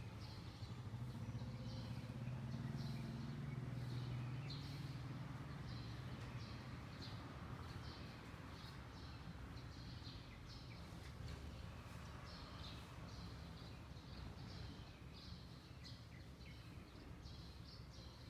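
Small songbirds chirping in quick, repeated short notes against neighbourhood background noise. A low hum is strong in the first few seconds and fades away by about five seconds in.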